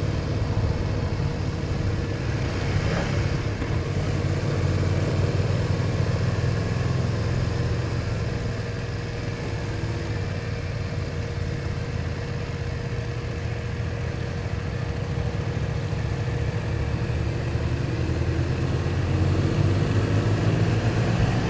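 BMW R1200 motorcycle's flat-twin engine running steadily at low road speed, heard from the rider's helmet camera with a rush of wind noise over it.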